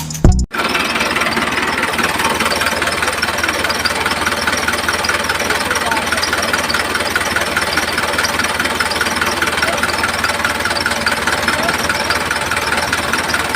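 A motor running steadily with an even, buzzing rattle, starting about half a second in as music cuts off.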